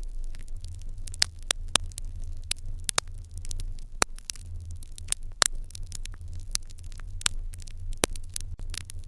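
Wood fire crackling in an open hearth: irregular sharp pops and snaps, several a second, over a low steady rumble.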